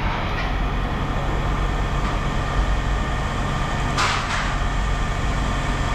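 Steady low machine drone, with a short noisy burst about four seconds in.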